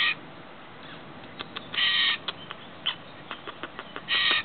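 A bird calling in short, harsh squawks, one roughly every two seconds, with light clicks and taps between the calls.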